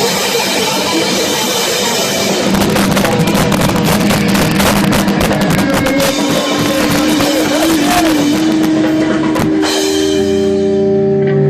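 Live rock band playing loud, distorted guitar over fast drumming, recorded with poor, overloaded sound. About nine and a half seconds in the drumming stops, leaving held guitar tones ringing.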